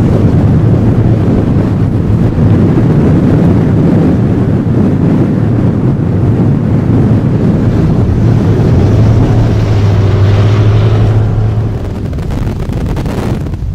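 Strong wind blowing across open lake ice and buffeting the microphone: a loud, low rumbling roar that eases off about twelve seconds in.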